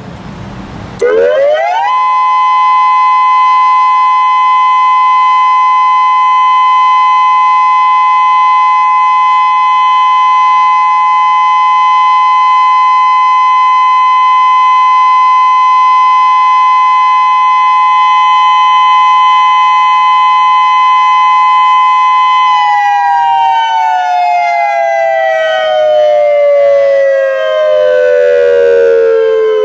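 Federal Signal Modulator 6024B electronic outdoor warning siren sounding its steady alert tone on test, very loud. It sweeps up about a second in, holds a steady two-note pitch for about twenty seconds, then slowly falls in pitch near the end.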